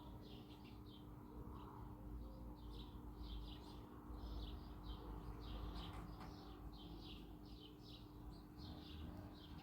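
Small birds chirping, a faint, continuous run of short high chirps, about two or three a second, over a low rumble.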